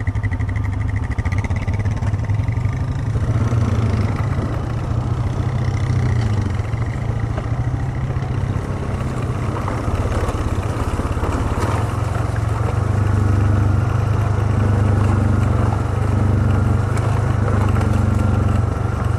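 An ATV's engine running steadily as it rides along a dirt trail. The engine note shifts a few seconds in and gets a little louder past the middle.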